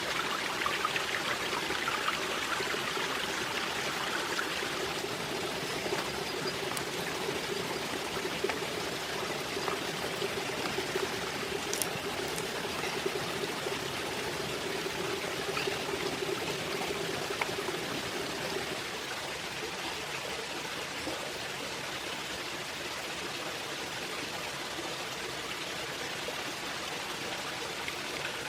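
Steady rush of running water, like a small stream, with a slight drop in level about two-thirds of the way through.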